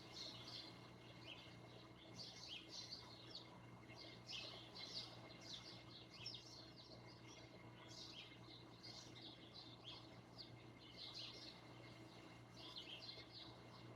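Small birds chirping in quick, repeated clusters of short high notes, faint, over a steady low hum.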